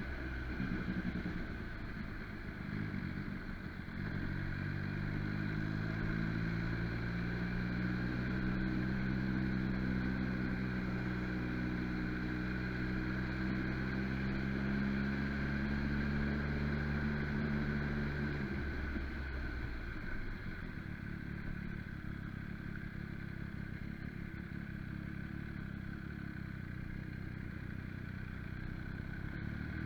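MV Agusta Brutale motorcycle engine running at a steady pitch, easing off about two-thirds of the way through to a lower, more even rumble.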